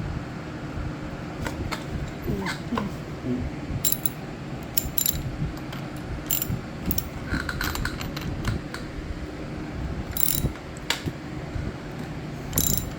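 Scattered sharp metallic clicks and clatter of a hand tool working on the spark plug of a Stihl KM91R trimmer engine, over a steady low background rumble.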